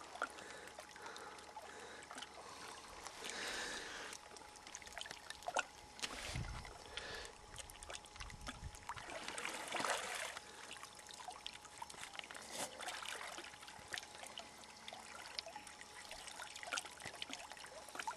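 Faint water sounds at the loch edge: lapping and trickling with small drips and splashes as a swimmer moves in the water against the rock. A low rumble comes in briefly about halfway through.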